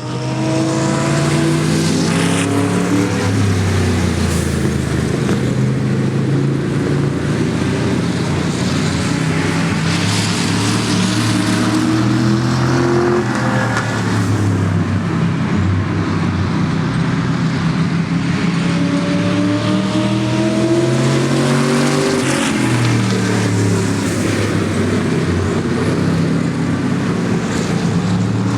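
Several Super Saloon race cars' engines running hard together, their pitch rising and falling as they accelerate and lift off around the oval, with cars passing by.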